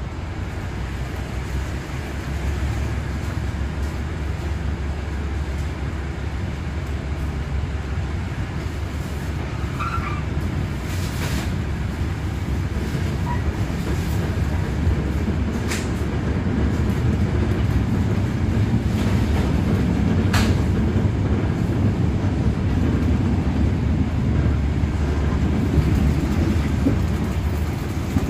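Passenger train under way, heard from on board: a steady low rumble of the wheels on the rails, with three sharp clacks. It grows a little louder about two-thirds of the way through.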